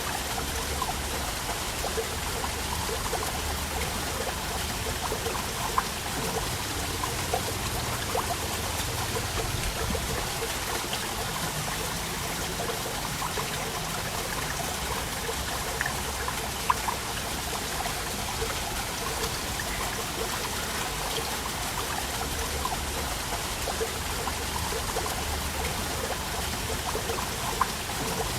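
Waterfall water running steadily, an even rushing wash with many small splashes and drips ticking through it.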